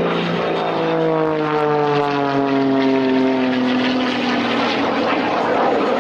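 Jet-augmented Pitts Special aerobatic biplane flying past. Its engine and propeller note falls steadily in pitch as it goes by, then gives way to a rushing noise near the end.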